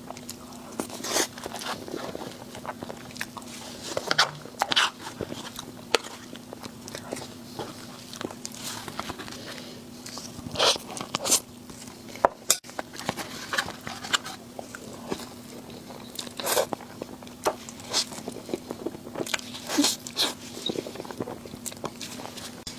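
Close-miked eating sounds: a person biting and chewing food, with irregular crunchy crackles and clicks of the mouth.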